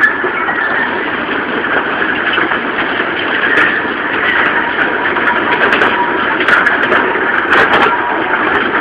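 A two-foot gauge train is under way, heard from one of its open cars. The cars rumble and rattle steadily over the track, with the locomotive's engine running ahead. Sharp clicks come once about a third of the way in and several more times near the end.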